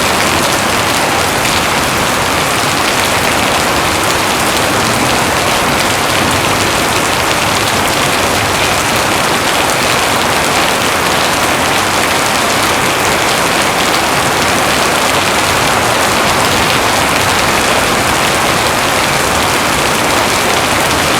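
Heavy rain falling steadily, an even dense hiss of rain on surfaces.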